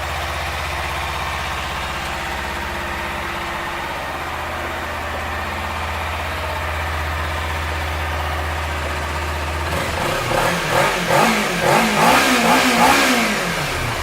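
Kawasaki Ninja 300's parallel-twin engine idling steadily, then revved in a quick series of short throttle blips near the end before settling back to idle.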